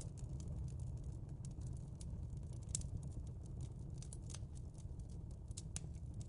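Fireplace crackling: irregular sharp pops and snaps of burning wood over a low, steady background noise.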